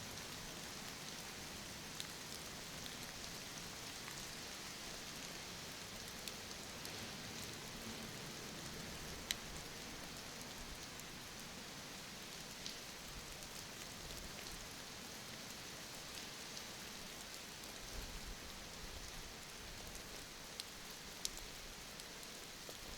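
Steady rain, an even hiss, with a few sharp single drop ticks scattered through it.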